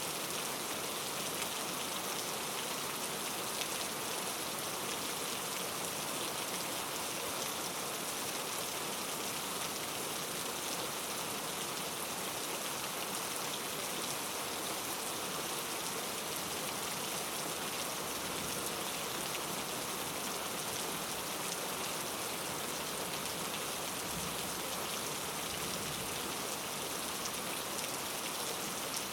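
Steady rain falling, an even hiss of drops pattering on a surface with no change in strength.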